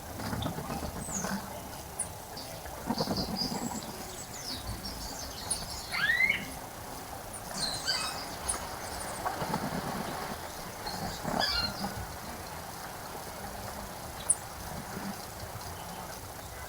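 Wild birds chirping and calling: short high chirps and trills, and a rising call about six seconds in, over a steady low background noise. A single sharp click comes near the end.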